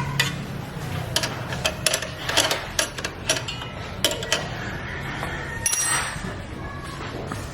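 Irregular metallic clinks and taps of hand tools and small metal parts, about a dozen over several seconds, during work on a motorcycle air filter mount, over a steady low hum.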